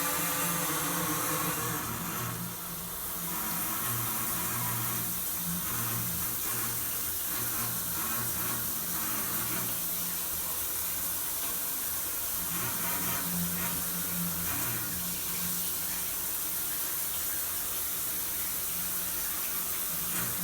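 Water spraying from a handheld shower unit, with a low hum underneath that comes and goes in waves; the builder suspects a vibration in the shower valve cartridge.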